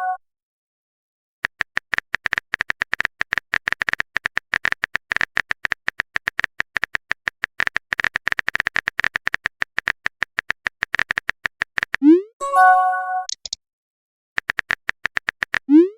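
Phone keyboard typing clicks, many a second, followed by a short rising swoosh and a chime as a message is sent or received. A second, shorter burst of typing near the end runs into another swoosh and chime.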